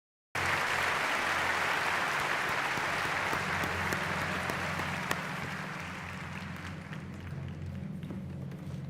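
Large audience applauding, starting abruptly and slowly dying down, with a low steady hum underneath.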